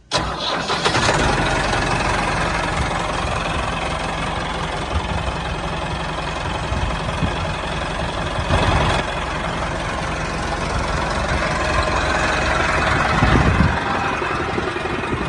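Small motor of a DIY miniature tractor running steadily, starting abruptly, with a dense mechanical whirring noise that swells slightly a couple of times.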